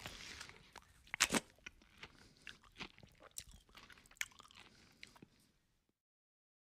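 Close-miked chewing and crunching of a mouthful of rice and duck curry eaten by hand, with wet mouth clicks and a few sharp crunches, the loudest about a second in. The sound cuts off suddenly about six seconds in.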